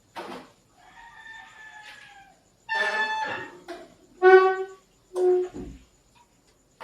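A rooster crowing: a long, slightly falling call, then three shorter, louder calls.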